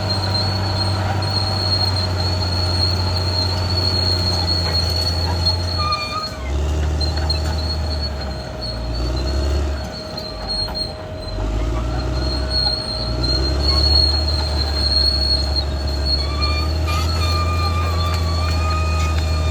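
CAT D6R XL crawler bulldozer working: diesel engine running under load, with the steel tracks squealing. The engine note dips and changes several times in the middle before settling again, and thin squeals glide up and down in pitch.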